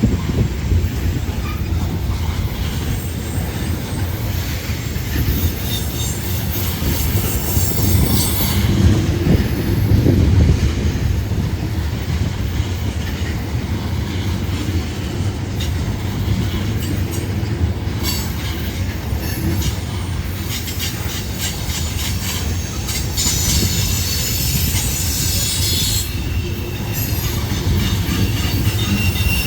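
Freight train rolling past close by: a steady low rumble of wheels on rail, with clicking wheels and several stretches of high-pitched wheel squeal.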